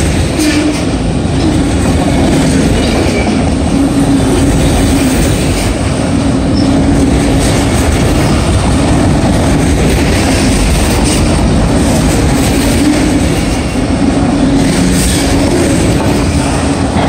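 Freight train of autorack cars rolling past at close range: a loud, steady rumble of steel wheels on the rails, with a low droning tone that comes and goes.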